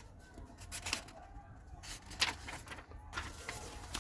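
Paper pages of a thick book being handled and turned: a few short rustles and taps over a low steady hum.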